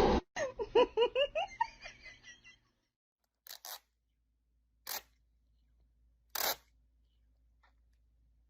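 A person laughing in a quick run of short bursts that fade away over about two seconds, followed by three short hissy noises spaced well apart.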